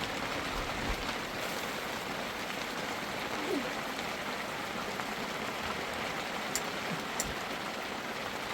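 Steady heavy rain falling, an even hiss with two faint clicks about two thirds of the way through.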